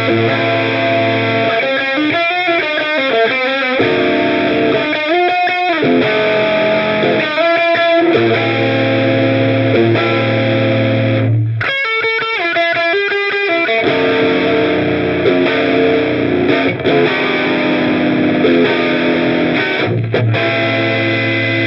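Electric guitar played through an Olinthus Cicada overdrive pedal, giving a distorted tone: ringing, sustained chords broken several times by quick picked riffs.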